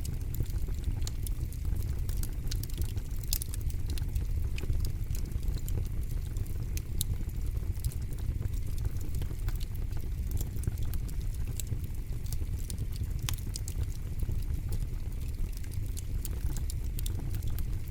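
Campfire burning with a steady low rumble of flames and frequent sharp crackles and pops from the burning wood.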